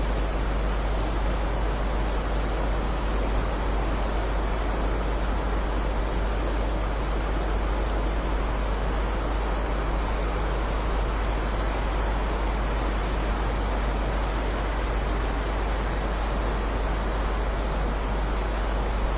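Heavy rain falling steadily, an even hiss with no single drops or thunder standing out, over a steady deep rumble.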